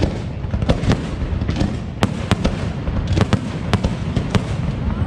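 Aerial fireworks going off in quick succession: sharp bangs, several a second, over a continuous rumble of shells and crackle.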